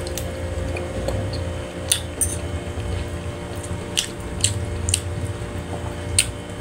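A person chewing soft food in a sauce, with about five short wet smacks and clicks, over a steady low hum.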